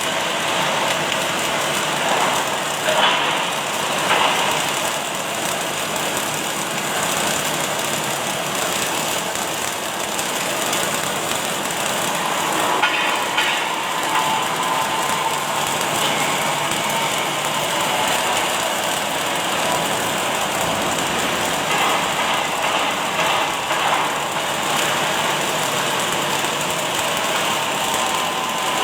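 Automatic welding machine at work in a factory: a steady hiss with a few short clicks and, in the second half, a faint steady tone.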